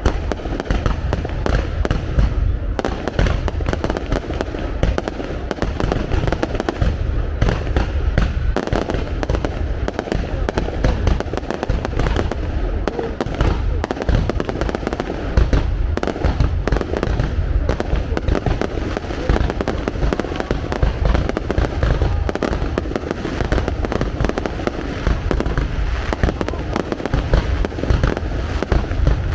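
Aerial fireworks display going off in a dense, unbroken run of overlapping bangs with a deep rumble beneath.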